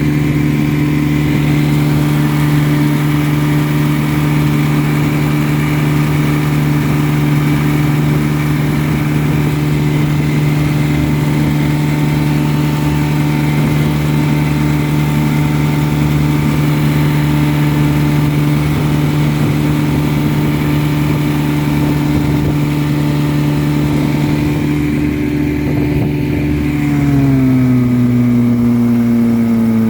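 1954 Johnson QD-15 10 hp two-cylinder two-stroke outboard running steadily at cruising speed, about 18 to 19 miles an hour. Near the end the engine note drops in pitch as it slows.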